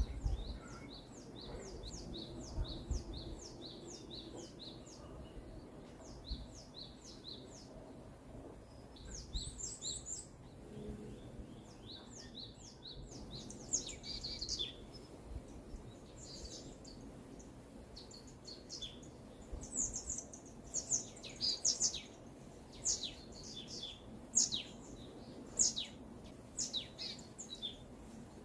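Songbirds singing in a forest. A fast run of short, high, descending notes opens it, followed by scattered chirps and quick downward-sweeping calls that grow more frequent in the second half, over a faint low background rumble.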